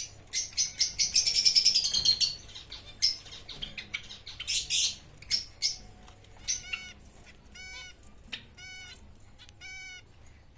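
Pet birds calling: a dense run of rapid chirps for the first couple of seconds and another short flurry midway, then a single bird repeating one arched call about once a second.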